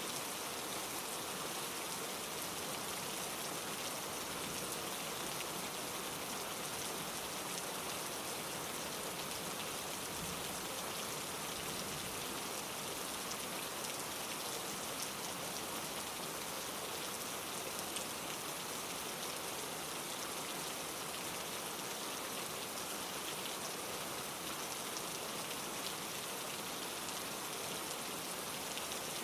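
Steady rain, a dense even hiss of drops pattering on leaves and foliage, with many small individual drop ticks.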